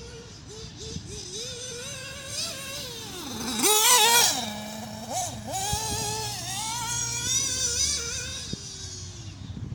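Nitro RC buggy's Alpha Racing 850 glow engine revving up and down as the buggy is driven, rising to its loudest, highest pitch as it passes close about four seconds in, then dropping away.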